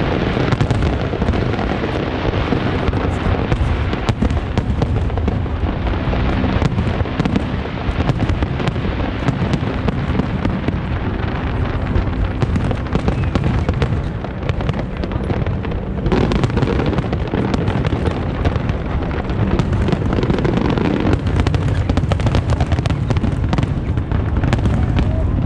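Aerial fireworks display going off continuously: a dense run of booming shell bursts and crackle with hardly a pause.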